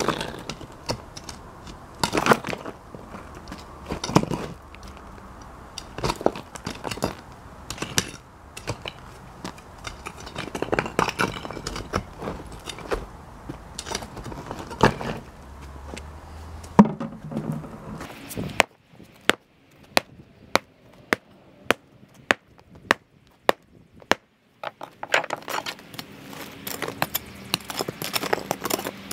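Sledgehammer blows on a cracked concrete slab, a sharp impact every couple of seconds, with crowbar prying and concrete chunks crunching and scraping in between. Midway there is a run of evenly spaced sharp knocks, about one and a half a second, before the scraping and crunching resume.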